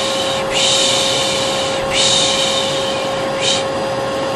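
Vacuum cleaner running steadily with a constant whine. Over it a person shushes "shhh" again and again, each hiss lasting about a second or so with short breaks between. This is the kind of shushing used to lull a baby to sleep.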